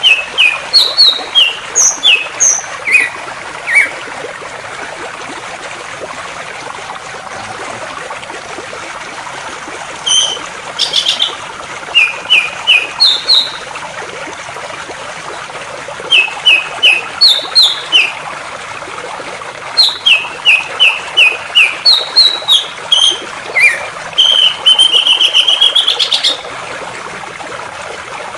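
A songbird singing in phrases of short, sharp chirping notes separated by pauses, with a fast trill near the end, over the steady rush of flowing water.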